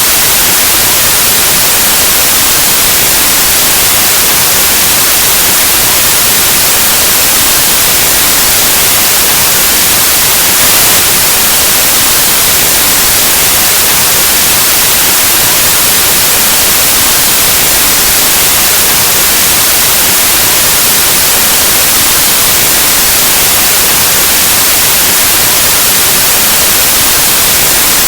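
Loud, steady white noise: an even static hiss across the whole range that does not change.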